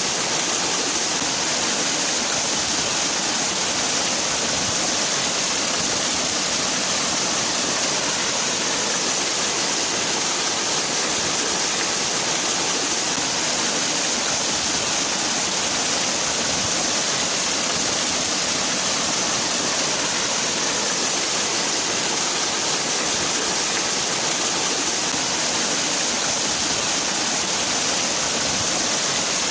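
Waterfall: water falling and splashing in a steady, unbroken rush, bright and hissy, with no change in level.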